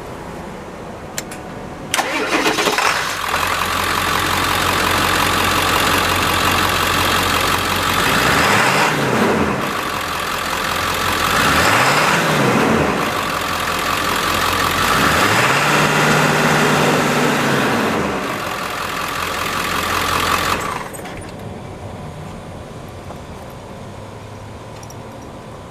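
2000 Ford F-350 pickup's engine cranking and catching about two seconds in, then idling. It is revved three times, rising and falling in pitch, the third rev held for a couple of seconds, and after returning to idle the engine is shut off near the end.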